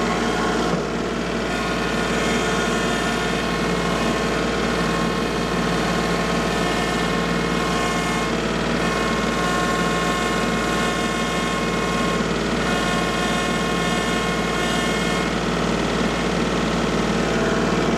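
A petrol or diesel engine running steadily at an even speed.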